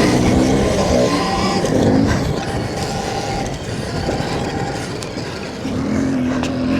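Stark Varg electric motocross bike riding, its motor whine rising and falling in pitch with the throttle over a steady rush of noise, climbing again near the end.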